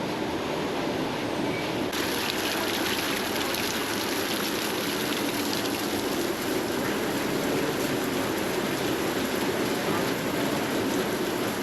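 Steady rushing of heavy rain in a storm. The hiss changes abruptly about two seconds in.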